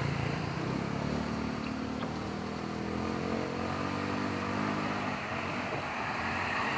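A motor vehicle's engine running at low revs, its pitch drifting gently up and down.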